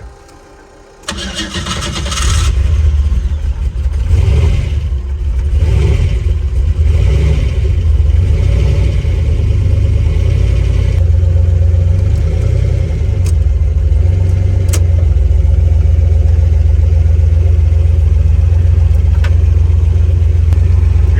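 Turbocharged aluminum 5.3 LS V8 (LC9) in a Nissan Hardbody truck starting about a second in, then running with a loud, deep, steady rumble.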